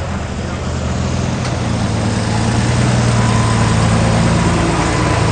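Car engine running at low, steady revs, a deep hum that grows louder over the first few seconds and stays level in pitch.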